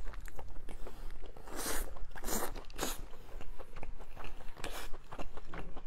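A person chewing and biting into soft braised pork belly, an irregular run of short mouth and eating noises with a few louder bites.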